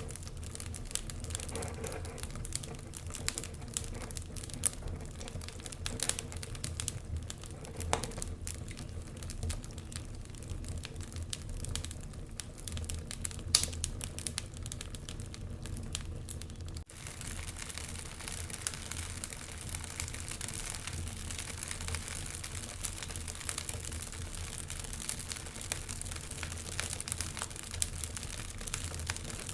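Wood fire crackling and popping, with irregular sharp snaps over a steady low rumble and hiss. A brief break about halfway through, after which the hiss is denser.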